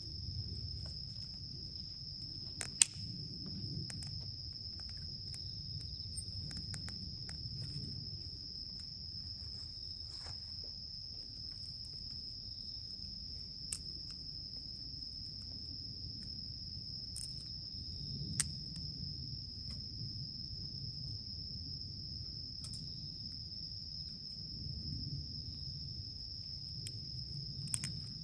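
Insects chirring in one steady, unbroken high tone, with scattered sharp pops from the campfire, the loudest about three seconds in, over a low rumble.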